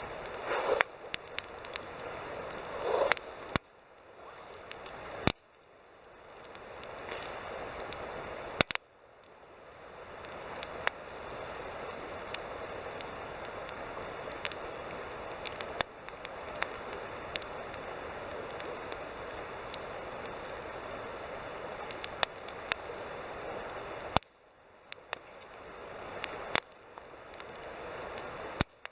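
Wood campfire crackling: scattered sharp pops and snaps over a steady hiss of burning. The hiss cuts off suddenly a few times and builds back up.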